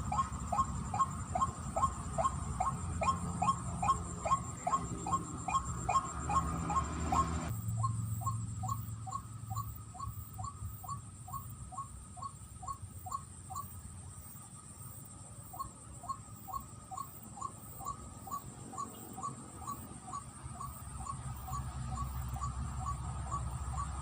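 White-breasted waterhen calls repeated in a quick steady series, about two or three short calls a second: the ruak-ruak call used to lure the birds. About seven seconds in the calls turn fainter and duller, then grow louder again near the end.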